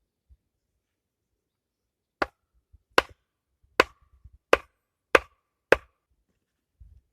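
Six sharp blows of a tool striking wood, one about every three-quarters of a second, starting about two seconds in.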